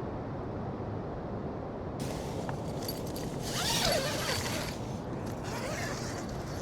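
Strong wind blowing across the microphone, with more hiss joining about two seconds in and a brief scratchy sound near the middle.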